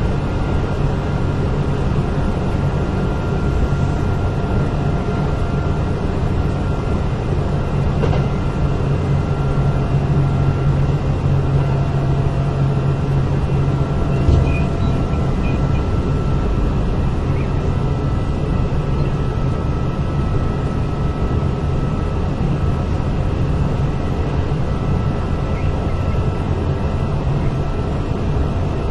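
Running sound inside a Kintetsu 8000 series electric train car: a steady low rumble of wheels and motors on the rail with a faint steady whine above it. There is one short knock from the track about halfway through.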